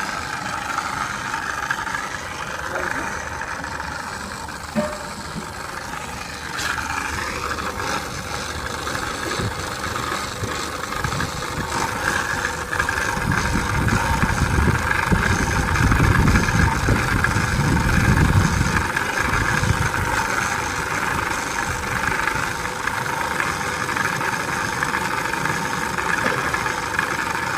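Refrigeration vacuum pump running steadily, evacuating the lines of a VRF air-conditioning system during commissioning, with a louder low rumble for several seconds in the middle.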